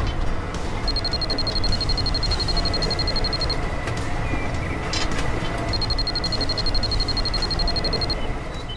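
Rapid, evenly repeating high electronic beeping, in two runs of about two and a half seconds each, over a steady low rumble.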